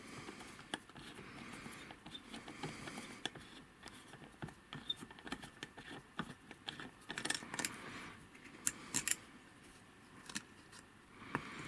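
Scattered small metallic clicks and taps of tools and wheel-hub parts being handled while a wheelchair's rear wheel is taken apart at its bearing, busiest a little after halfway.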